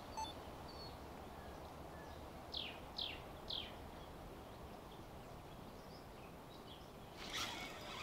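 Faint outdoor ambience with a songbird calling: three quick notes, each falling in pitch, about half a second apart, a couple of seconds in. A soft noise rises near the end.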